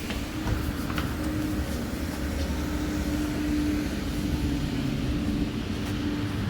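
A public-transport vehicle running close by: a steady low rumble with a constant humming tone.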